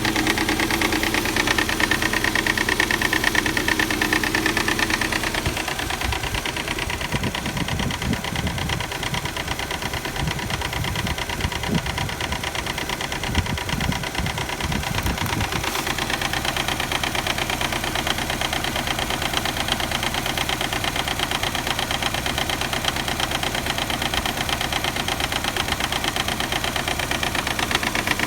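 Subaru EJ257 turbocharged flat-four idling cold, with a fast, steady clacking from the front of the engine: the timing belt slapping because of a defective hydraulic timing belt tensioner. An uneven low rumble joins in from about six seconds in and stops at about fifteen seconds.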